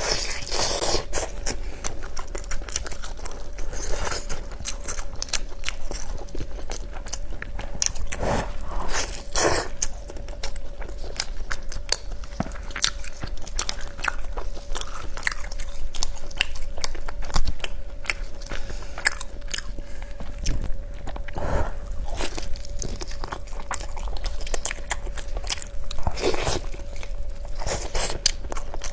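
Close-miked mukbang eating: repeated biting, crunching and chewing of food in irregular bites, with a faint steady hum underneath.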